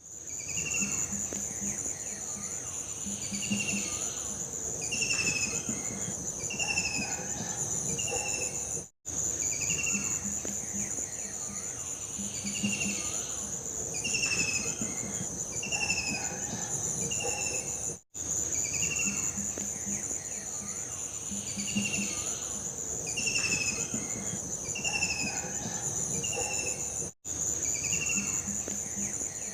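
Looped nature ambience: a steady high insect trill with repeated short, falling chirps over it. The loop restarts with a brief dropout about every nine seconds.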